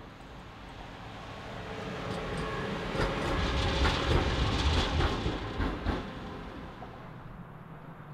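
Electric locomotive crossing a steel railway bridge. It grows louder to a peak about three to five seconds in, with a string of sharp wheel clicks, then fades away.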